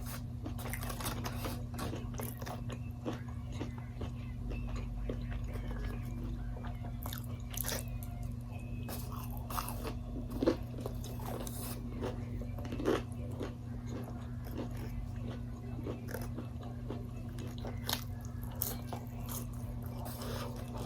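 A person chewing and biting into crunchy Wingstop food close to the microphone: irregular crunches and wet chewing, with a couple of louder crunching bites around the middle. A steady low hum runs underneath.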